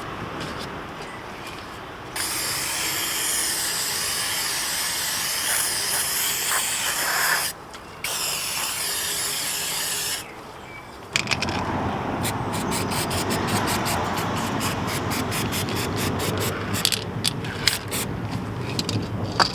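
Aerosol brake cleaner spraying in two long hissing bursts, typical of cleaning a brake hub or caliper during a brake job. After a short pause comes a rougher scrubbing noise with a run of rapid sharp clicks near the end.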